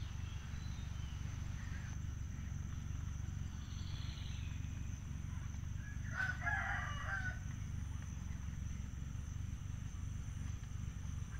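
A bird calls once, about six seconds in, a single call of about a second and a half, over a steady low rumble.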